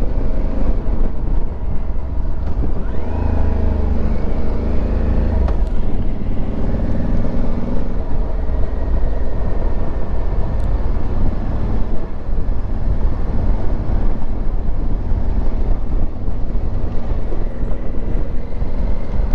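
Honda Africa Twin Adventure Sports' parallel-twin engine running under way, with road and wind noise on the microphone; the engine note rises and falls about three to five seconds in.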